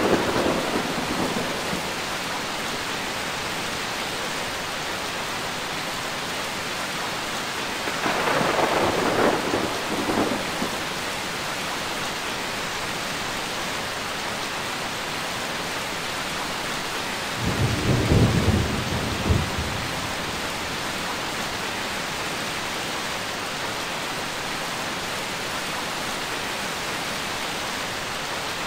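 Steady heavy rain in a thunderstorm, with rolls of thunder: one fading away in the first couple of seconds, another about eight seconds in, and a deeper, louder rumble about seventeen to twenty seconds in.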